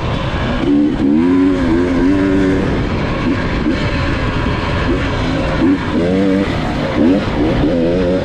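Dirt bike engine running under way, its pitch rising and falling again and again with the throttle, over a steady rushing noise.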